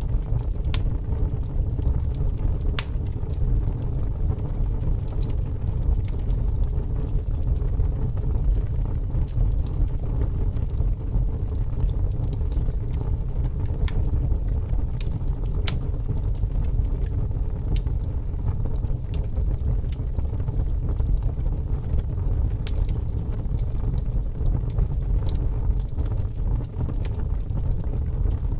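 A fire burning, with a steady low rumble and scattered sharp crackles and pops every second or so.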